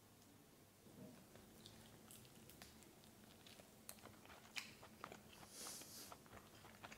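Faint biting and chewing of a crisp-skinned roast chicken wing, small crunches and wet mouth clicks starting about a second in.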